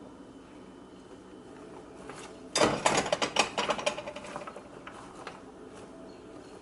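Sliced bell peppers and onions tipped onto a metal sheet pan, clattering in a quick flurry of clicks and rattles about two and a half seconds in that lasts about two seconds, then a few scattered taps as the pieces settle.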